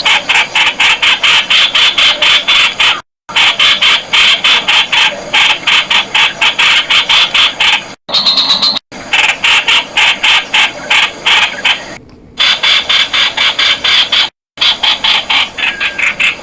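Streak-eared bulbul calling: a fast, loud run of sharp repeated notes, about six a second, broken a few times by abrupt brief silences.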